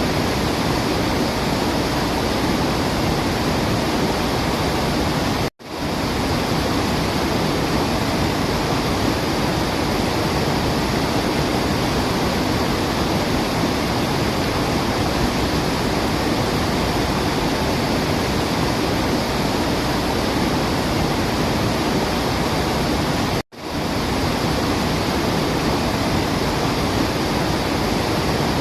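Steady rushing roar of a waterfall. It cuts out for an instant twice, about five seconds in and near the end, then picks straight back up.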